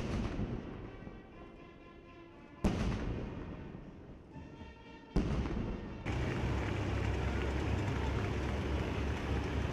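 Three sudden booms about two and a half seconds apart, each dying away, then from about six seconds in a steady loud rumble of jet aircraft noise.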